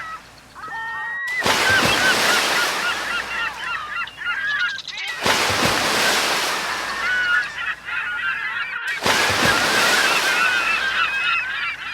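A flock of gulls calling over the wash of breaking waves, many short, wavering cries overlapping. The surf noise drops out and cuts back in abruptly several times, as where the recording is spliced.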